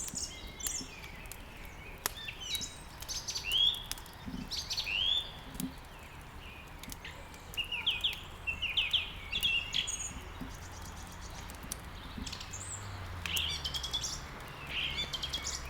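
Several small songbirds chirping and trilling in quick repeated phrases, over scattered sharp clicks of burning wood crackling in a fireplace and a faint low hum.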